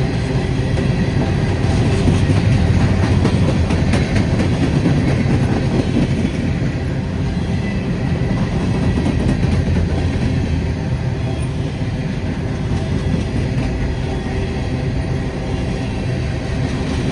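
Freight train of empty grain cars rolling past at steady speed: a continuous rumble and rattle of wheels on rail.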